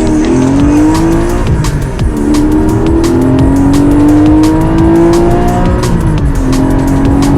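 A car engine pulling hard, its pitch climbing steadily, dropping back about a second and a half in and again near six seconds in, then climbing again as it shifts up through the gears. Music plays underneath.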